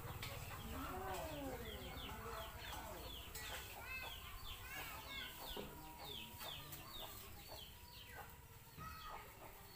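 Birds calling: many short, high, falling chirps, several a second, with a few lower, longer calls near the start.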